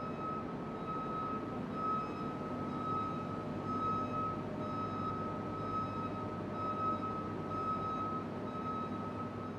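Heavy machine's reversing alarm beeping steadily about once a second over the rumble of its engine.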